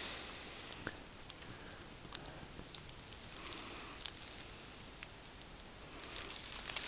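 Faint rustling and scattered small crackles of dry leaf litter and twigs as someone moves through woods, with two soft swishes, one midway and one near the end.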